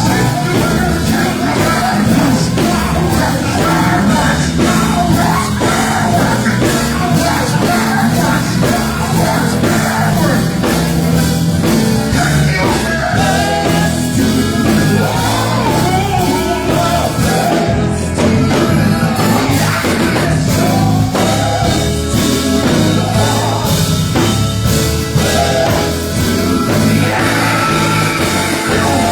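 Gospel group singing live with an amplified band: lead and backing voices over a steady bass line and drums.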